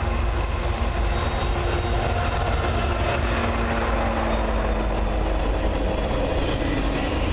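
Freight train running past: a steady low rumble, with the drone of diesel locomotive engines that fades about five seconds in.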